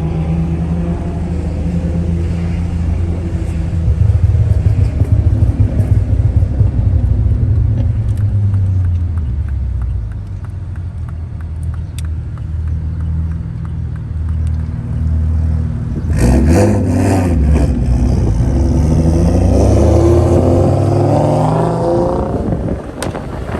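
Car engine running on the road, then accelerating hard from about two-thirds in, its pitch climbing steadily for several seconds before the revs drop near the end.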